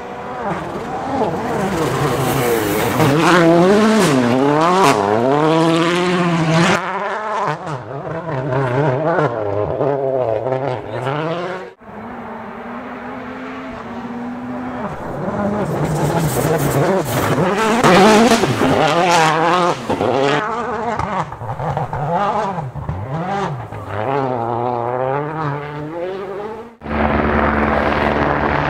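World Rally cars' turbocharged engines revving hard, the pitch climbing and dropping again and again through gear changes, in two passes split by a sudden cut. About two seconds before the end another sudden cut brings in a steady, even engine drone.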